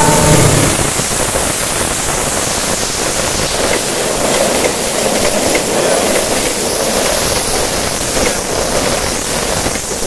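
KAI CC206 diesel-electric locomotive hauling passenger coaches, passing close by: the locomotive's low engine rumble is loudest in the first second, then a steady rush of wheels on rail as the coaches go past.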